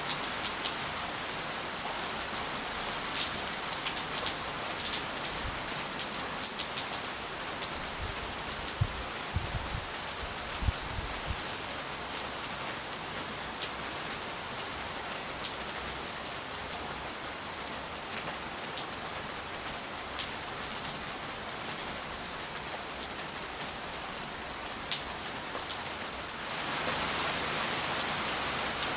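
Steady rain falling, with close drops ticking sharply on surfaces over the hiss; the rain grows louder near the end.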